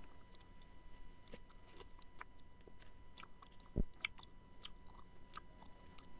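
A person chewing smoked pork close to the microphone, with many small mouth clicks. There is one low thump about four seconds in.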